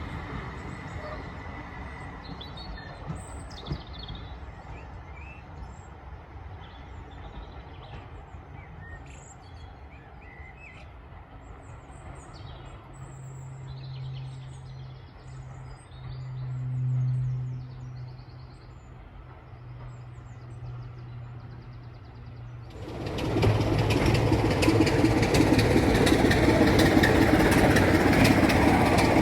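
Birds chirping over a faint low hum, with a low engine drone that swells and fades around the middle. About 23 seconds in, a loud, steady railway locomotive sound cuts in suddenly and keeps going.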